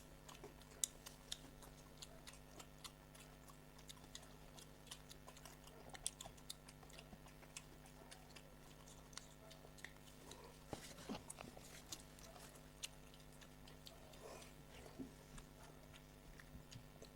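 Faint eating sounds: chewing with scattered small clicks, over a steady low hum.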